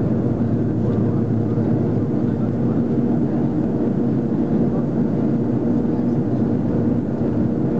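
Steady cabin noise inside an Airbus A330-300 in flight: the drone of the engines and the rush of air along the fuselage, with a steady hum of several held tones.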